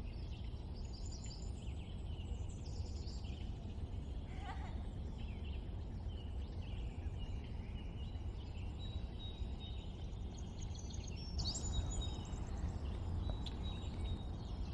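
Several wild birds chirping and whistling, with many short calls overlapping, over a steady low background rumble.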